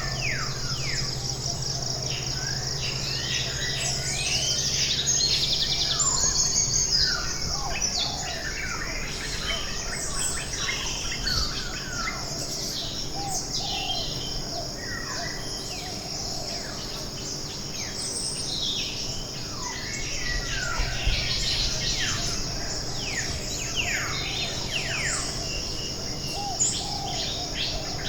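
Chorus of many forest birds, a dense stream of quick chirps and whistles, many sliding downward in pitch, over a steady high-pitched insect drone.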